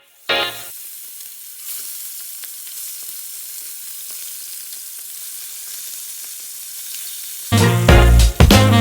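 Food frying in hot oil: a steady sizzle. A short burst of music comes just after the start, and loud background music cuts back in near the end.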